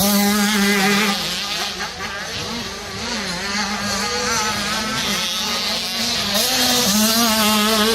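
Several motocross dirt bikes running together, their engines revving and wavering up and down as they race around the track.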